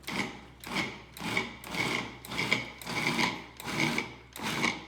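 A kitchen utensil scraping rhythmically against a dish, about eight strokes at a steady pace with a slight ringing on each, as chicken liver is worked in the bowl.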